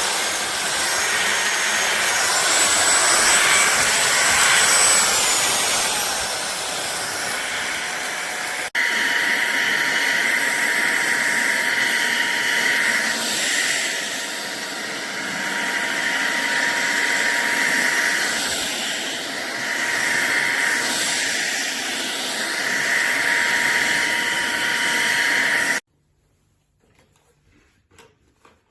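Fieety cordless stick vacuum cleaner running with a loud, steady whine that swells and eases. The sound changes abruptly about a third of the way in and cuts off suddenly near the end, followed by a few faint clicks.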